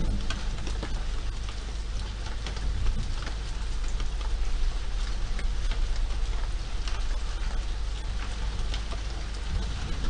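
Steady rain falling, with scattered close drops ticking sharply on a surface.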